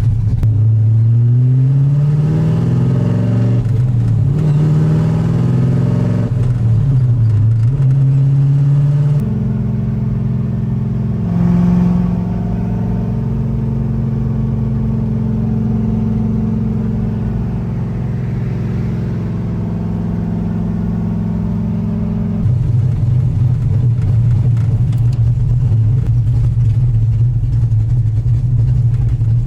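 The 6.2-litre LS3 V8 of a swapped Mazda Miata accelerating hard, its revs climbing and dropping several times as it shifts through the gears, then running at a steady cruise. The sound changes abruptly about nine and twenty-two seconds in.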